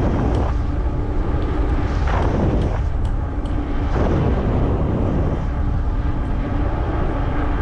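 Wind buffeting the microphone on a moving electric fat tire bike, a continuous low rumble, with a steady motor hum that fades in and out.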